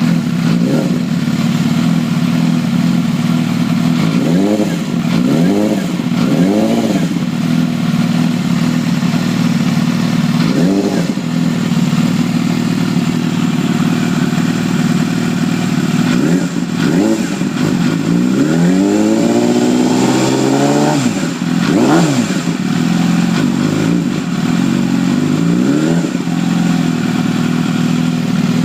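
Engine idling and blipped on the throttle again and again, with one longer rev about two-thirds of the way through. A whine comes in right when the throttle opens, the weird sound the owner is chasing.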